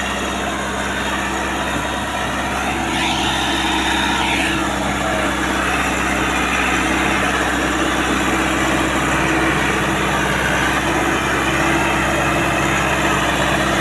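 Massey Ferguson 385 tractor's diesel engine running steadily under load.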